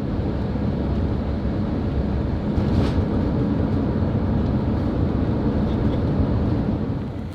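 Steady low rumble of a vehicle on the move, with road and engine noise and no pauses, dropping off abruptly near the end.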